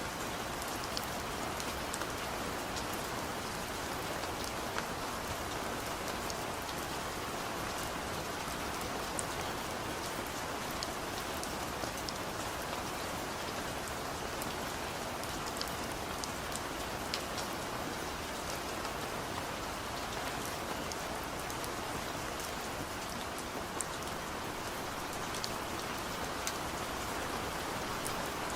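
Steady rain falling, with scattered sharp drops ticking through the constant hiss.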